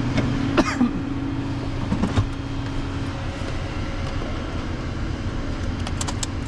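Motor vehicle running steadily with a level hum, and a few short clicks near the end.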